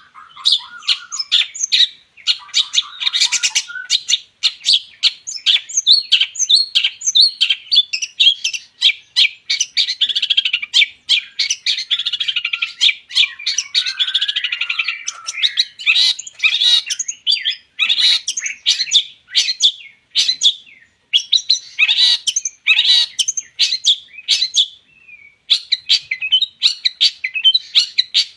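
Long-tailed shrike in full song: a fast, varied stream of sharp chirps, whistles and harsh chattering notes, broken by a few brief pauses.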